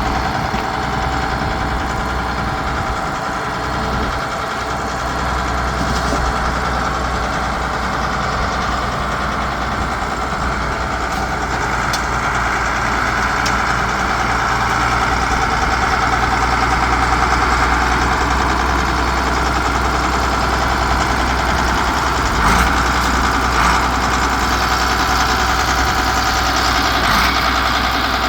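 A vehicle engine running steadily, with a few brief knocks near the end.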